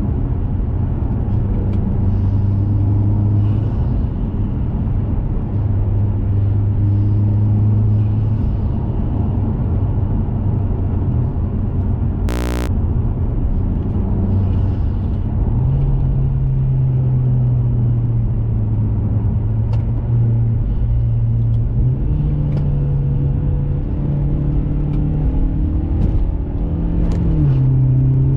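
2021 Mazda 3 Turbo's 2.5-litre turbocharged four-cylinder running under steady cruise through an aftermarket cat-back exhaust, with a constant road rumble. The engine note steps up in pitch twice and dips briefly near the end. One short sharp tick about midway.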